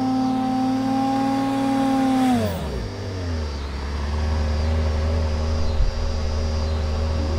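Supercharged Mazda MX-6 engine breathing through a front-mount cold air intake, held at raised revs and then dropping back to a steady idle about two and a half seconds in. A brief thump comes about six seconds in.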